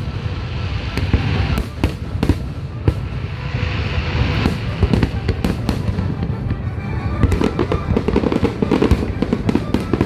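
Fireworks finale barrage: a dense, continuous run of booms and crackling bursts, many reports a second over a steady low rumble.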